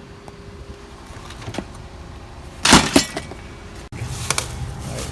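A few light knocks, then a loud clatter about halfway through; after a sudden cut, the steady low rumble of a vehicle with a couple more clicks.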